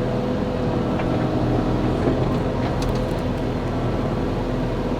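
Excavator diesel engine running steadily, with a few faint clicks or knocks partway through.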